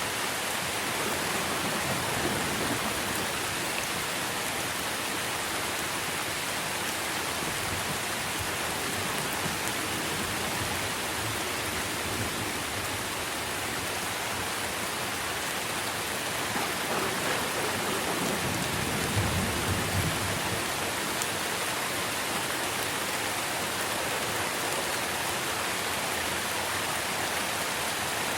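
Steady rain falling on tree leaves, a dense even hiss of drops. About two-thirds of the way in, a brief low rumble swells under the rain.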